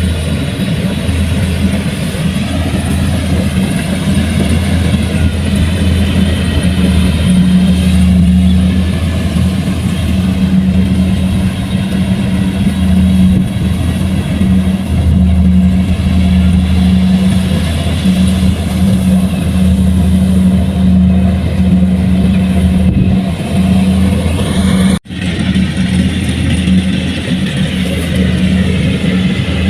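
Large farm machine's diesel engine running steadily and loudly under load, with its pitch wavering slightly. The sound breaks off for an instant about 25 seconds in, then carries on.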